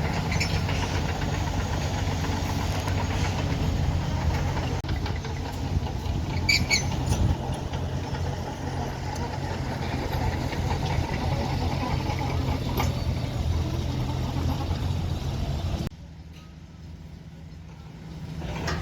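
Bulldozer's heavy diesel engine running steadily, with brief high squeaks about six and a half seconds in. Near the end the sound drops away abruptly for a few seconds, then comes back.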